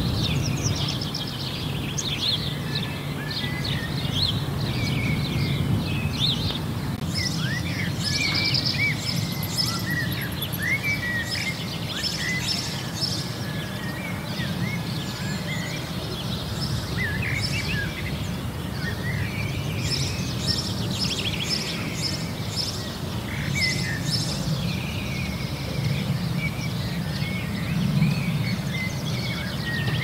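Many small birds chirping and twittering at once in short, overlapping calls, over a steady low background rumble.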